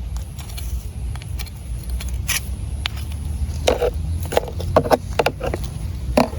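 Scattered clicks and scrapes of African land snail shells being picked up and handled, with a cluster of them in the second half, over a steady low rumble.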